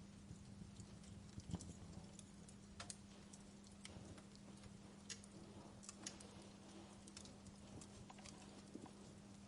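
Wood log fire crackling in a fireplace: faint, irregular pops and snaps scattered through, a few sharper than the rest, over a steady low hum.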